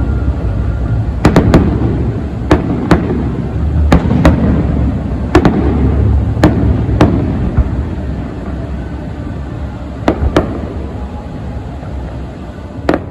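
Fireworks going off: about a dozen sharp bangs at irregular spacing over a continuous low rumble, growing sparser toward the end.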